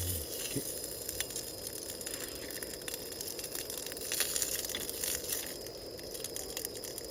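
Meat sizzling as it grills over a wood fire, with scattered crackles and pops.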